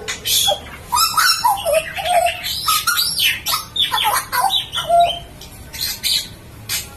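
Butcherbird (Jagal Papua) singing loudly: a rapid jumble of rising and falling whistled notes mixed with harsh, clicking notes. About five seconds in it switches to a string of short, sharp notes.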